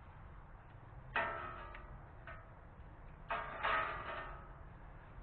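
Metal hand tools clinking against metal on the engine: a sharp clink about a second in, then two more close together past the three-second mark, each with a short ring.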